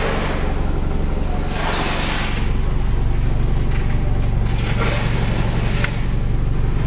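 Toyota Avensis 1AZ-FSE 2.0-litre four-cylinder petrol engine running steadily, a little louder from about two seconds in, with a few brief swells of rushing noise over it.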